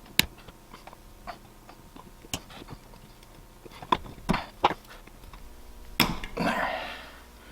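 Small metal clicks and taps of a tool working a cotter pin out of a motorcycle carburetor, irregular, with a few louder clicks near the middle and a sharp one followed by a brief hiss about six seconds in.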